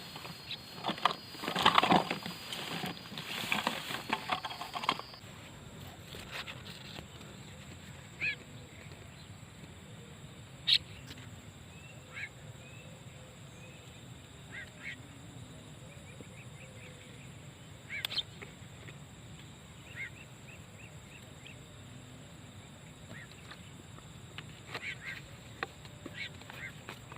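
Starling (jalak) calls: a dense run of loud chirps for the first few seconds, then single short calls every few seconds.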